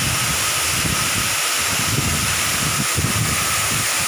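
Waterfall rushing: a steady, loud hiss of falling water, with irregular low buffeting of wind on the microphone.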